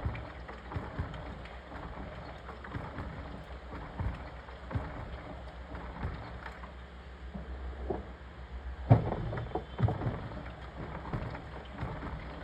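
Washing machine in its wash phase, water and laundry sloshing as the drum turns, with irregular soft thuds and surges, strongest about nine and ten seconds in.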